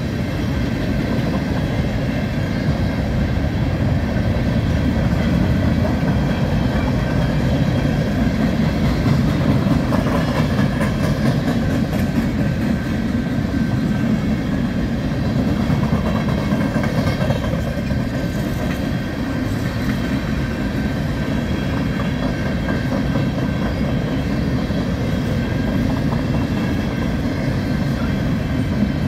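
Freight train cars rolling past close by: a steady low rumble of steel wheels on rail, with a run of light clicks about ten to thirteen seconds in.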